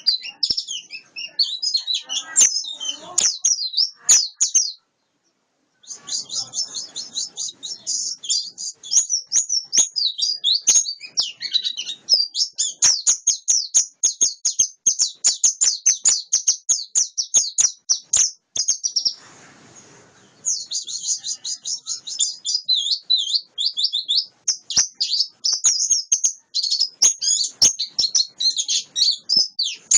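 White-eye (pleci) singing a long, fast, almost unbroken stream of high chirps and twitters, the continuous 'ngalas' song style. It breaks off briefly about five seconds in and again around twenty seconds, where a short hiss is heard.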